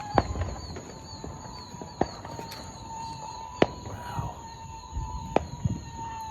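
Neighbourhood fireworks going off, sharp bangs every couple of seconds: four loud reports and several fainter pops between them.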